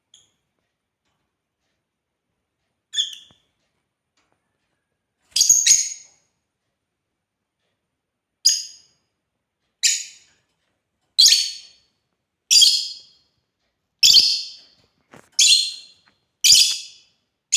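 African lovebird giving short, high-pitched calls with silent gaps: a single call about three seconds in, a double call a couple of seconds later, then seven calls at a steady pace of about one every second and a half.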